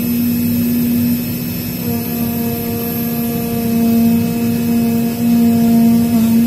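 Automatic leather cutting machine running: a steady hum over a rushing noise, with a second, higher tone joining about two seconds in.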